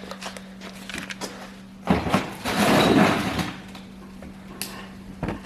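Handling noises in a workshop: scattered small clicks, a knock about two seconds in, then about a second of loud rattling, rushing noise, all over a steady low hum.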